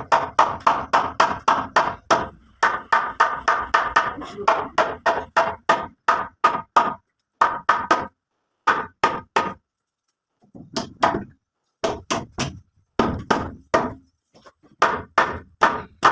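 Rapid, repeated blows of a hand tool striking wood, about three a second, in runs broken by a couple of short pauses near the middle.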